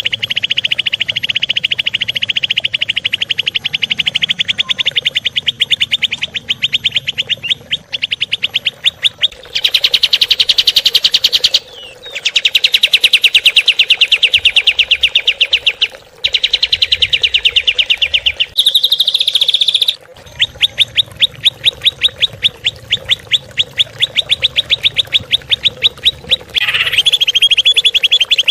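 Recorded songbird song: long runs of fast, evenly repeated chirping notes, about ten a second, broken off and resumed abruptly several times as separate recordings are spliced together.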